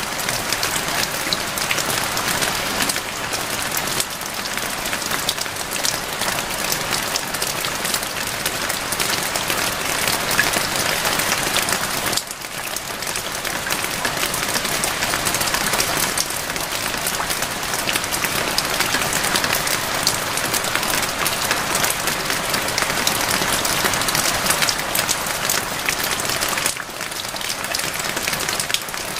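Steady rain: a dense hiss of countless drops pattering. It eases briefly about twelve seconds in and again near the end.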